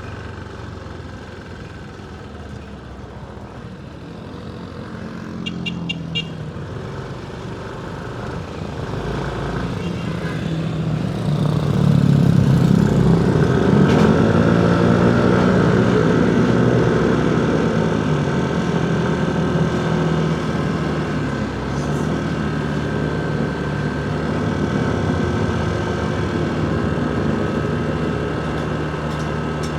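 Motorcycle engine running while riding through city street traffic, with road and traffic noise around it. The sound swells and the engine pitch shifts from about ten seconds in, loudest a few seconds later, then settles back to a steady run.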